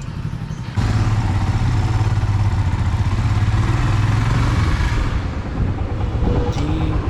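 Motorcycle engine running as the bike rides off, with wind noise on the microphone; it comes in suddenly about a second in and then runs steadily.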